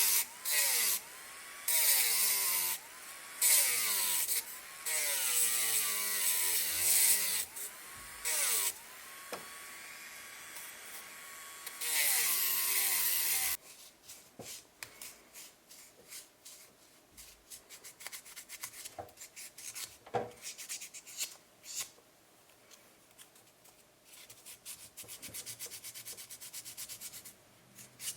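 Small power tool abrading the silver ring in short stop-start bursts, its motor whine sliding up and down in pitch as the load changes. From about halfway, quieter hand sanding: many short scratchy strokes with small clicks.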